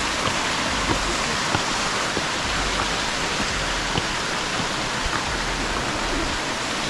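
Steady rush of flowing water from a rainforest mountain stream, with a few faint clicks now and then.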